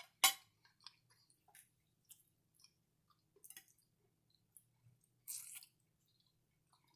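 Close-miked chewing and mouth sounds of a person eating: scattered small wet clicks, a sharp click just after the start, and a brief louder noisy burst about five seconds in, over a faint steady low hum.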